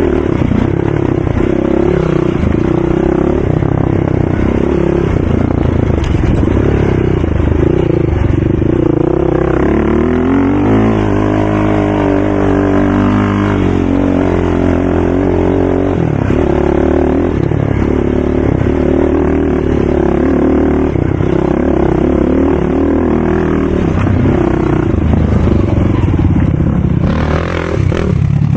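ATV engine running continuously at a loud level, its pitch rising and falling as the revs change, with the clearest sweep of changing revs about ten to fourteen seconds in.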